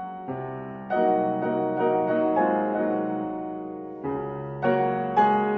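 Slow, gentle piano music: single notes and chords struck one after another, each ringing out and fading.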